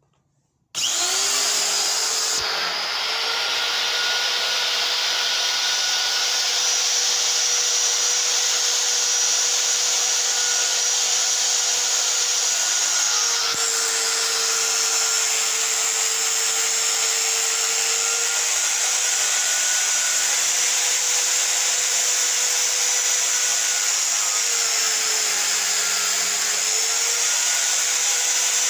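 A high-speed electric motor switches on about a second in, whines up to speed over a second or two, then runs steadily with a loud hissing rush. Its pitch dips and recovers a couple of times while it runs.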